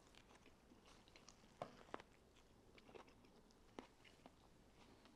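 Near silence with faint chewing: a person eating a burger, with a few soft mouth clicks, two of them close together about a second and a half in.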